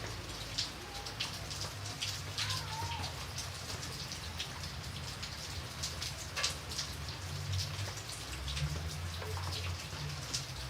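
Rain falling steadily: a constant hiss with many separate drops striking a surface as sharp ticks, over a low rumble.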